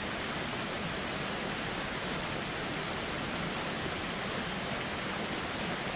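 Steady rushing of a river's flowing water, an even wash of sound with no separate splashes or calls.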